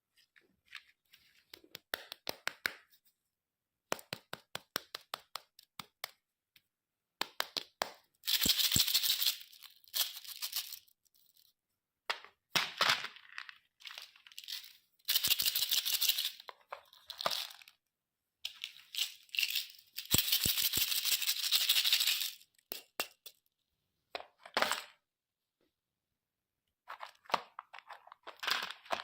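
Close-up crackling and clicking handling sounds, with three hissy bursts of a second or two each, separated by stretches of silence.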